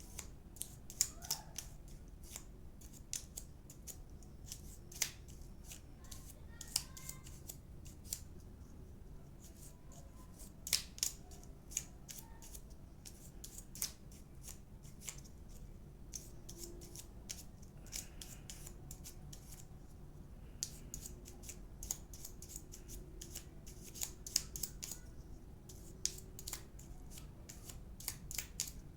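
Irregular sharp clicks and small taps, a few a second, from the plastic and metal parts of a disassembled hair dryer being handled with hands and tools during servicing.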